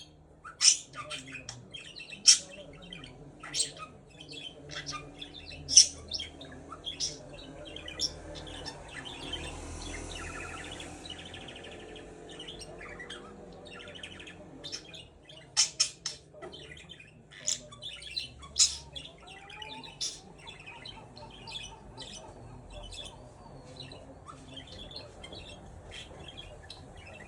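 Budgerigar chirping and warbling: a run of short, sharp high chirps and squawks over a continuous soft chatter.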